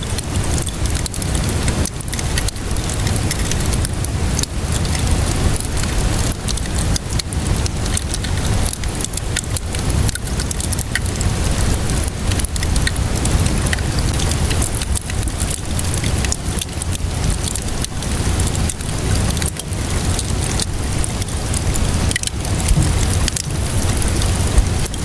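Steady rainfall mixed with a crackling wood fire: a dense, even hiss of rain with frequent sharp pops and snaps scattered through it, over a low rumble.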